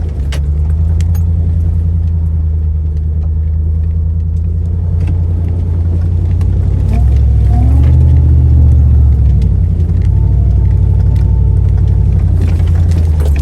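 Off-road 4x4's engine running low and steady as it crawls along a rocky trail, with scattered light clicks and rattles over it. The engine note rises and swells about seven seconds in as it takes more throttle, then settles back.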